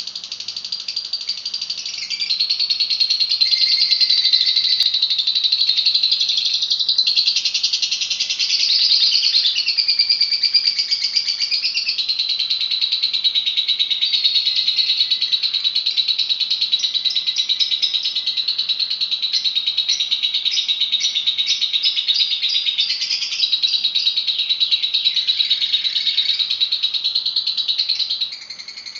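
Lovebird singing nonstop in a fast, high, unbroken chattering trill, dropping in loudness near the end.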